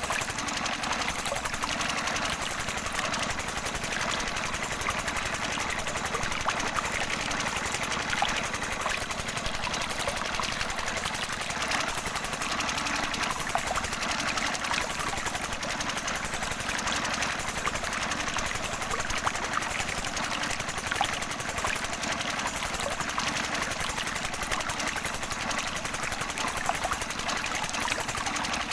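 Small motor of a homemade model tractor water pump running steadily with a fast, even rattle.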